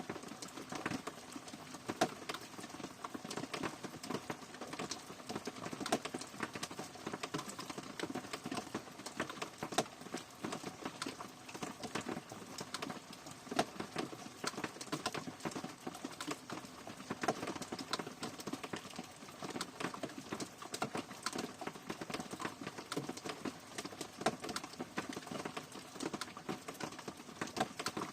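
Rain falling, heard as a dense, uneven patter of individual drops tapping, some taps standing out louder than the rest.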